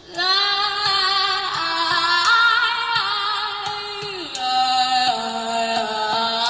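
Female voice singing long, held notes with vibrato; it starts abruptly and steps down to a lower pitch about four seconds in.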